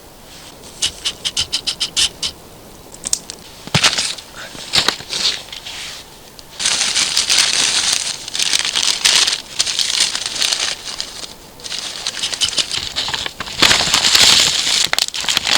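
Rustling and crackling of damp twigs and kindling being handled while a campfire is coaxed alight, with a quick run of about ten clicks about a second in and long stretches of rustling from about six seconds on.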